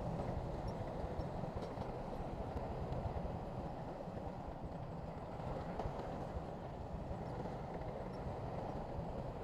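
Heavy diesel earthmoving machinery running steadily, a dense low rumble with no break or change.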